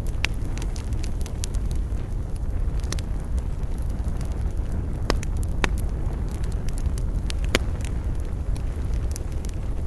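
Wood campfire crackling, with irregular sharp pops and snaps over a steady low rumble. The loudest pops come about five seconds in and again around seven and a half seconds.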